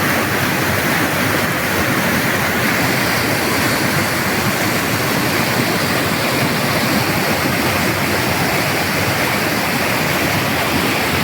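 Waterfall on a creek: water falling steadily in a loud, even noise that does not change.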